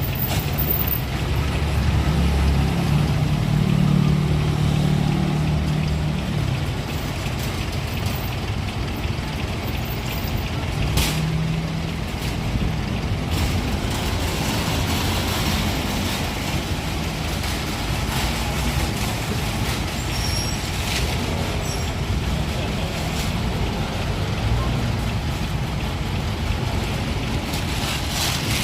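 Garbage truck's diesel engine running on an Isuzu FVR chassis, with short air-brake hisses about eleven seconds in and again near the end.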